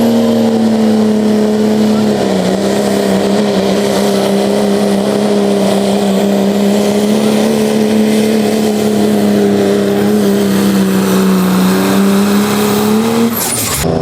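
Turbocharged diesel pickup truck engine held at high revs while pulling a sled, a loud, steady drone with a slight dip in pitch about two seconds in. It breaks off abruptly near the end.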